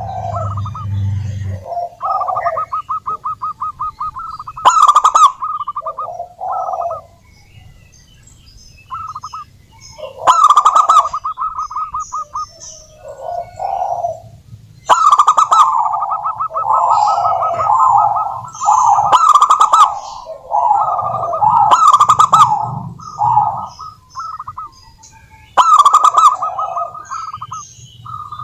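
Zebra dove (perkutut) cooing in repeated bouts of rapid, rattling notes. Each bout opens with a sharp loud note, with short pauses between bouts.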